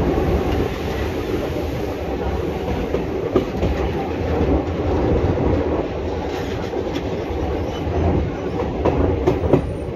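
Express passenger train running at speed, heard from on board: a steady rumble of the wheels on the rails with rail-joint clickety-clack, and a few sharper clacks, most of them near the end.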